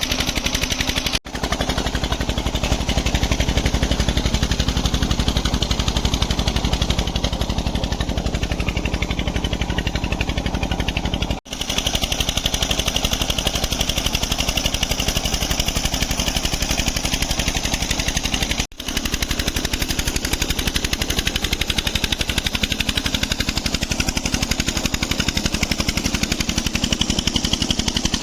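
Petter stationary engine running a tubewell pump at a steady speed with a fast, even exhaust beat. The sound cuts out briefly three times.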